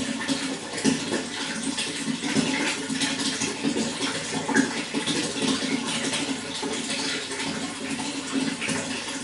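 Running water splashing and burbling steadily, with many quick little splashes over a continuous rush.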